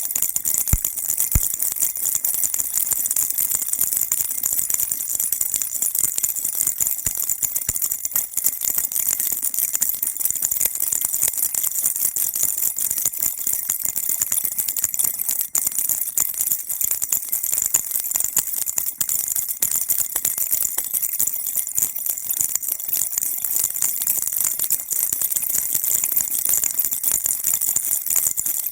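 Baby rattle shaken continuously, a dense, unbroken high jingling and clattering with no pauses.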